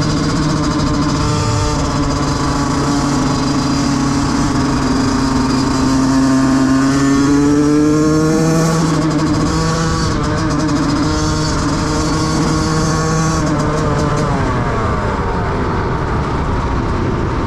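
Yamaha YZ125's single-cylinder two-stroke engine running, its pitch rising and falling as the throttle changes.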